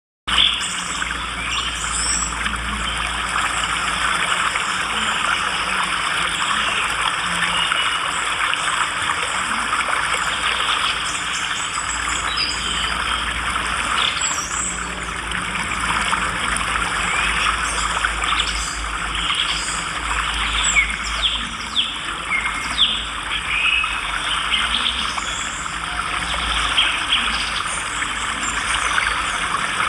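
Dense, steady twittering of many swiftlets, with short sweeping chirps standing out over it, more of them in the second half.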